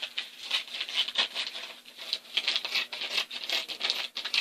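Scissors cutting through a dog food bag along its fold: a quick, irregular run of crisp snips.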